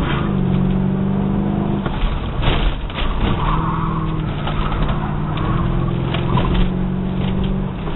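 1997 Ford Thunderbird engine running hard under load, heard from inside the cabin. Its steady note breaks off briefly about two seconds in, then picks up and holds again.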